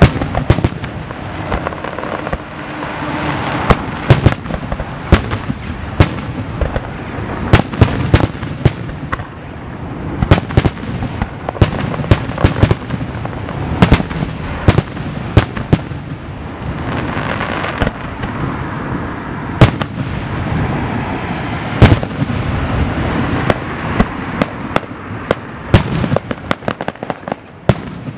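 Aerial fireworks display: shells bursting in quick, irregular succession, dozens of sharp bangs over a continuous crackling hiss from the bursting stars.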